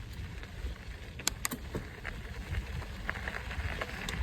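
Mountain bike riding up a dirt trail: steady low wind rumble on the microphone, with a few sharp clicks from the bike about a second in and again near the end.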